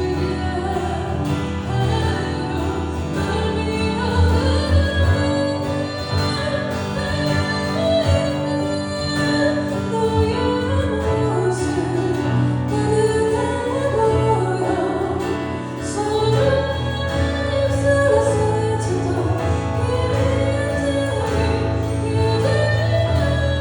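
A woman singing a song over full instrumental accompaniment, with sustained bass notes underneath.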